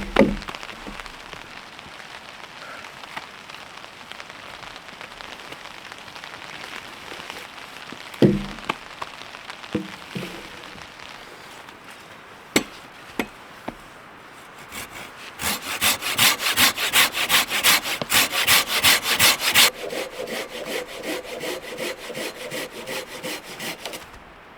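Hand saw cutting wood in quick back-and-forth strokes for the second half, after a few scattered knocks of wood being handled. The strokes turn softer and lower for the last few seconds before stopping.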